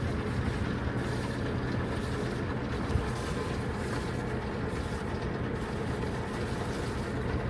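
A sailboat's inboard engine running steadily at low speed while the boat motors out through a mooring field, with a single brief knock about three seconds in.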